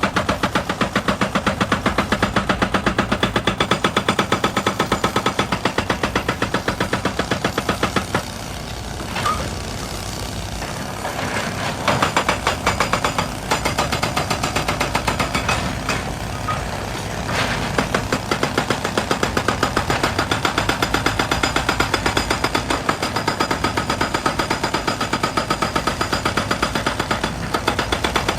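Excavator-mounted hydraulic rock breaker hammering rock in a rapid, steady run of blows, with the machine's diesel engine underneath. The hammering stops for a few seconds about a third of the way through, leaving the engine and a few scattered knocks, then starts again.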